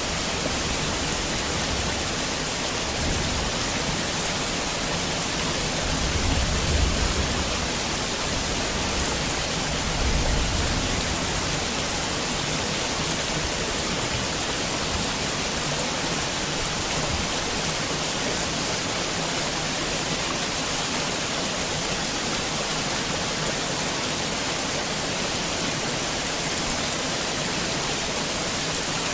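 Heavy rain falling steadily in a dense, even hiss, with a few brief low rumbles in the first third.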